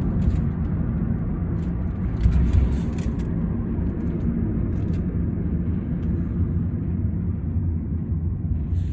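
Taxi cabin noise while driving: a steady low rumble of engine and tyres on the road, with a few faint ticks.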